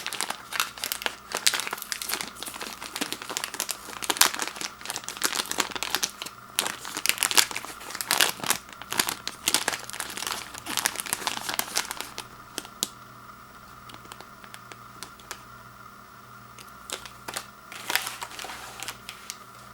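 Granola bar packaging crinkling and crackling as it is handled, dense and irregular for about twelve seconds, then mostly stopping, with a brief crinkle again near the end.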